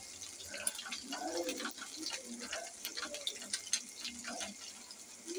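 Beef mince kababs sizzling in shallow oil on a flat iron tawa, a steady fizz full of fine crackles and spits.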